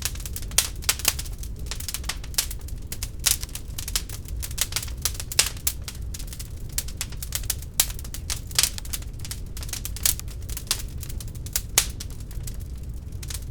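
Wood fire crackling in an open fireplace: a quick, irregular run of sharp pops and snaps over a steady low rumble of the flames.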